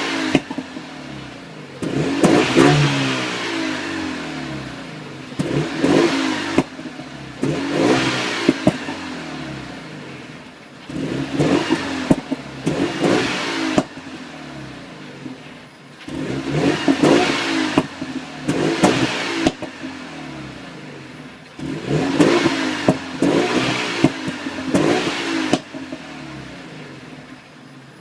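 Renault Mégane 3 RS 250's turbocharged 2.0-litre four-cylinder engine blipped about six times, each rev burst rising and falling with sharp exhaust pops and crackles as the throttle closes.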